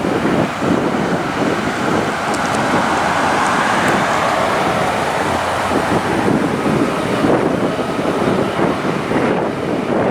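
Strong wind buffeting the microphone, a loud steady rumbling noise, over the sound of road vehicles.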